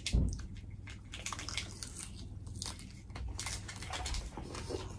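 Close-miked eating sounds: biting and chewing fried pork rib meat off the bone, a scatter of short crackly clicks and crunches from the mouth. A soft low thump right at the start.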